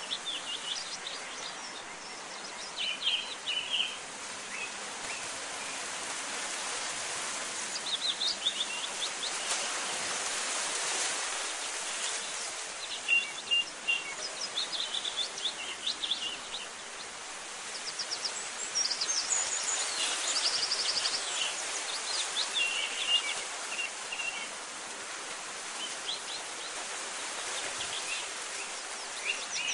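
Small songbirds chirping and trilling every few seconds over a steady outdoor hiss.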